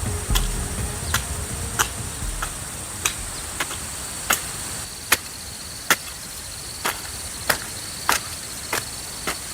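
Repeated sharp strikes of a hand tool, about one every 0.7 seconds, over a steady high buzz of insects; a thin high insect trill joins about halfway through.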